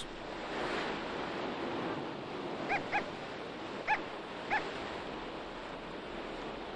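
Steady wash of surf, with four short, high yelping calls in the middle.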